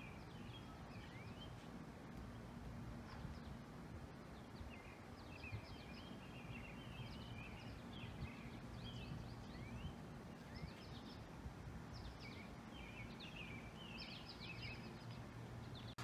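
Small birds chirping and twittering, a steady run of short, quick high notes, over a faint steady low hum of outdoor ambience.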